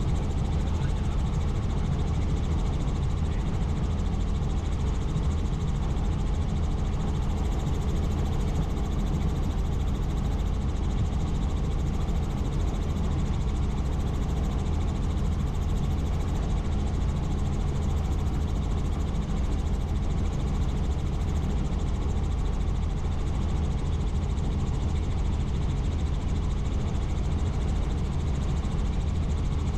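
Helicopter in steady flight: a constant low drone of rotor and engine that does not change in pitch or loudness.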